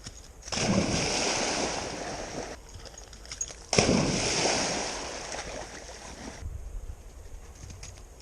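Dog splashing through pond water: two sudden bursts of splashing, about half a second in and again near the four-second mark, each fading out over a couple of seconds.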